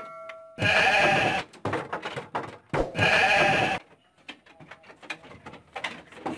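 Livestock bleating: two loud, long bleats about two seconds apart, each lasting close to a second, followed by fainter short sounds.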